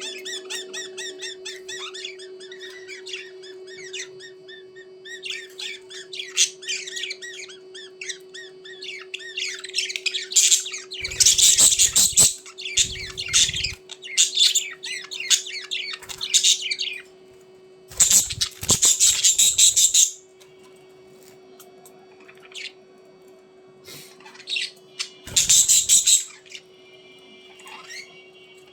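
A flock of budgerigars chattering and warbling in quick, busy calls, broken by three spells of loud harsh squawking. A steady low hum runs underneath.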